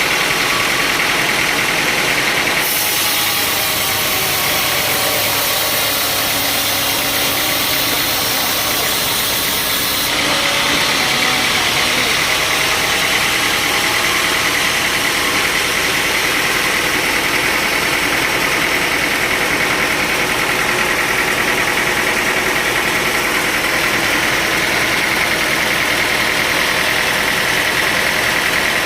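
Sawmill machinery running steadily and loudly, its character changing abruptly twice, about three and ten seconds in.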